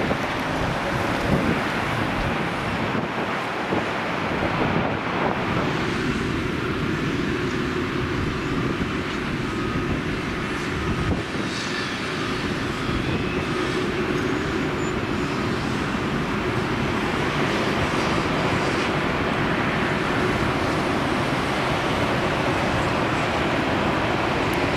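Steady rush of aircraft and vehicle engine noise with wind buffeting the microphone; a faint steady whine joins about six seconds in.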